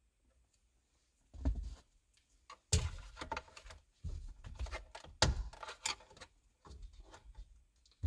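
A string of knocks and clunks from hand work on a truck's steering wheel, with scraping and rustling between them. The loudest knocks come about three seconds in and again about five seconds in.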